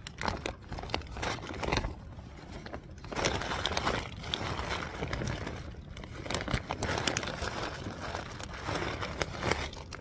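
Irregular crinkling and rustling of nylon bivvy fabric and gear being shifted about at close range, with scattered sharp clicks.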